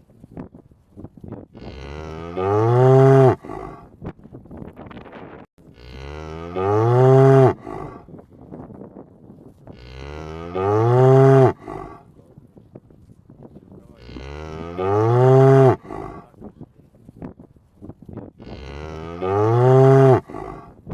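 A cow mooing five times, about every four seconds. Each moo lasts a little over a second and rises then falls in pitch, and the calls look identical, like one moo repeated. Faint crackling noise fills the gaps between them.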